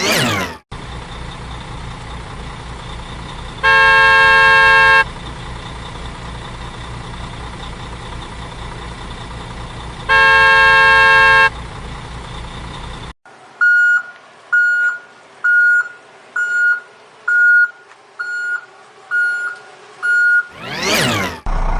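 Truck sound effects: a low engine idle rumble with two long horn honks, then about eight evenly spaced reversing beeps. A quick swoosh opens the passage and another comes near the end.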